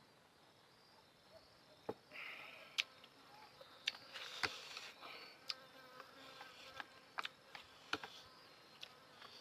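Eating sounds of noodles: slurping and chewing, with sharp wet clicks and smacks at irregular intervals, starting about two seconds in.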